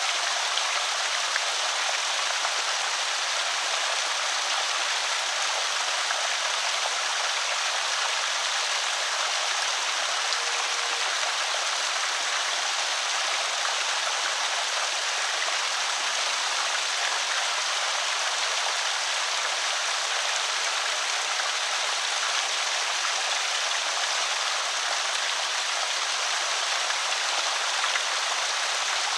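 Water spilling over a small creek spillway, a steady, unbroken rushing trickle.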